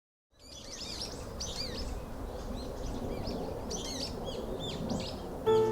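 Several songbirds chirping in quick, repeated arched notes over a steady outdoor background hiss.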